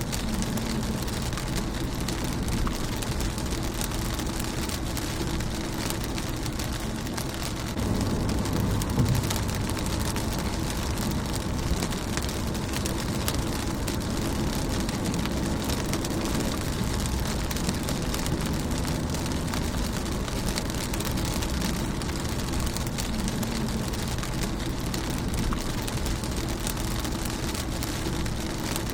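Rain falling on a car's windshield: a dense, even patter of raindrops that steps up a little about eight seconds in.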